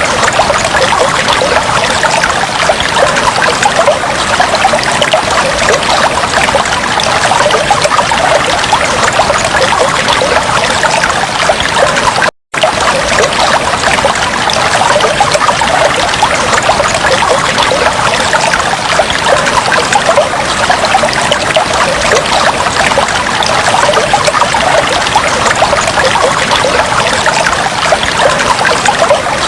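Aquarium water trickling and bubbling steadily, a dense splashing patter with no pauses. It cuts out completely for a split second about twelve seconds in, then resumes.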